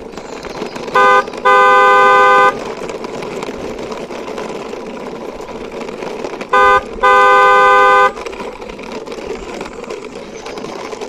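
Car horn honking in a short-then-long pattern, twice over, loud and steady in pitch, over a continuous rushing vehicle-like noise.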